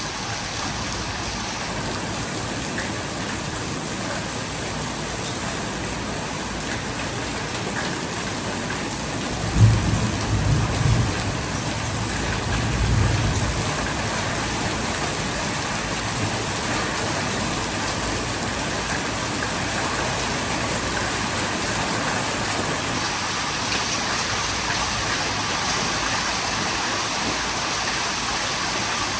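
Heavy monsoon rain pouring down in a steady hiss. About ten seconds in comes a sudden deep rumble, which swells again a few seconds later.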